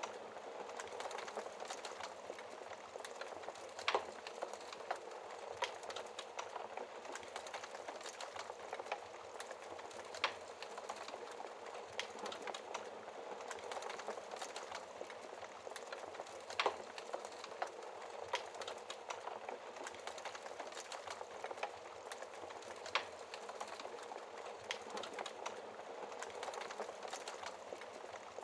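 Wood burning in a fireplace: a steady soft hiss of flames with scattered crackles and a few sharper pops, the loudest about four, ten, seventeen and twenty-three seconds in.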